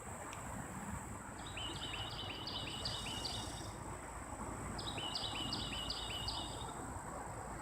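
A songbird sings two phrases of quick repeated chirps, the first about a second and a half in and the second about five seconds in, over a steady low background rumble and a faint steady high tone.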